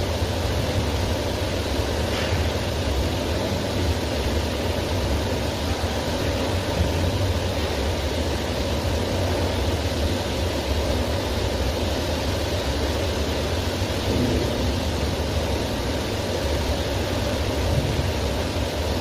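TIG (argon) welding arc burning steadily: a continuous buzzing hum with a hiss over it.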